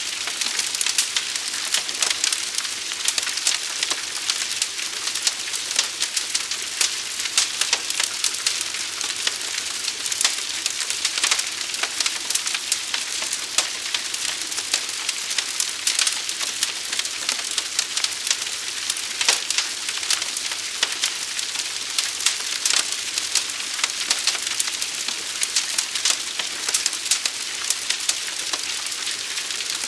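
Fire burning steadily with dense, irregular crackling and popping over a continuous hiss.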